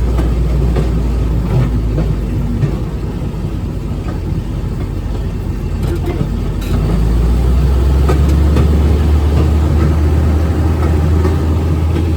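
Railroad speeder running along the track, its engine and rolling wheels heard from aboard as a steady low rumble that grows louder about seven seconds in.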